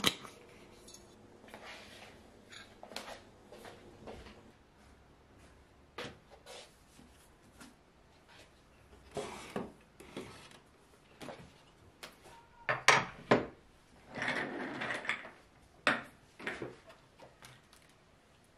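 Household objects being handled: scattered knocks and clinks, with a few short rubbing or scraping sounds.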